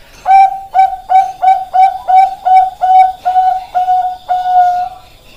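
Zebra dove of the Bangkok perkutut strain singing a run of about a dozen quick cooing notes, roughly three a second, ending on a longer held note.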